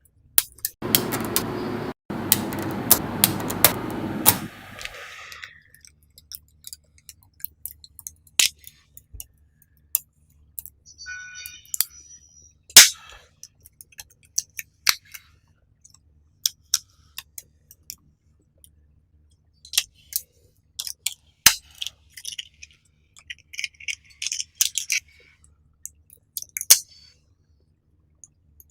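Small neodymium magnetic balls rattling together in a heap for about five seconds, then snapping onto one another one at a time in scattered sharp clicks.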